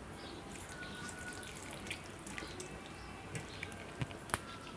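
Scattered faint clicks and taps over low steady room noise, the sharpest a little after four seconds in.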